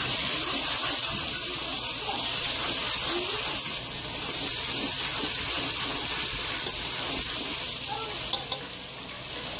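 Onion-tomato masala with ground spices frying in hot oil in a pot as it is stirred: a steady sizzling hiss that eases a little near the end.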